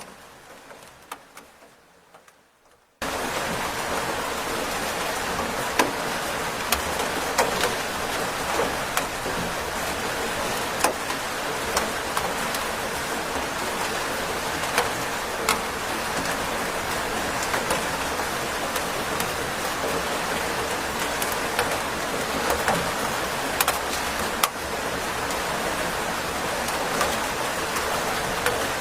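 Rain falling steadily, a dense hiss with many individual drops ticking sharply. It starts abruptly about three seconds in, after a few faint, fading drips.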